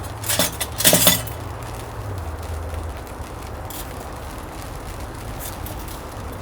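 A few sharp clinks and knocks, as of hard objects being handled and set down, bunched together about a second in, with fainter clicks later. A low steady hum underneath stops about halfway through.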